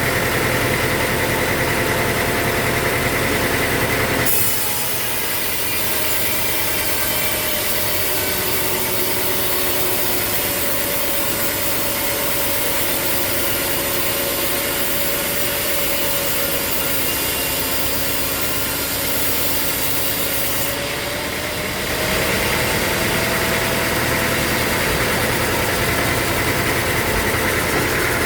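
Sawmill machinery running, with a saw cutting through wood. In the middle stretch a steady whine sags slightly and then recovers; the sound changes abruptly twice, about 4 s in and again about 22 s in.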